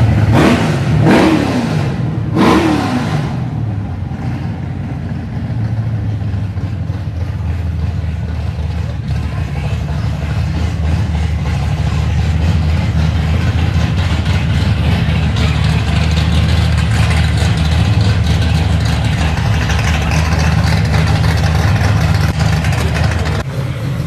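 Car engine revved three times in quick succession, the pitch falling back after each rev, then running steadily with a low rumble that drops away near the end.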